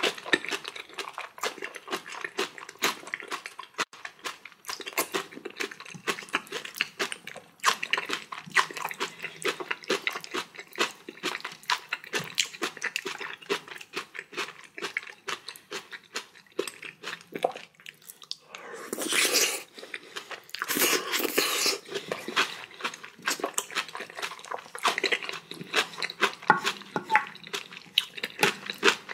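Close-miked chewing and crunching of jajangmyeon noodles and spicy kimchi: a dense run of small wet clicks, with two longer, louder noisy stretches about two-thirds of the way through.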